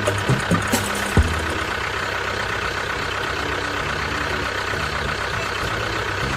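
A small motor, such as a mini truck's, running steadily with a thin steady whine over an even mechanical hiss. A few sharp clicks come in the first second or so, and low background music runs underneath.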